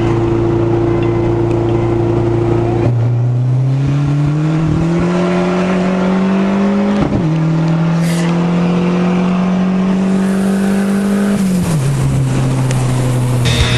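Car engine holding a steady note, then climbing in pitch in stages as it accelerates, with a brief drop about seven seconds in like a gear change, and easing back down near the end.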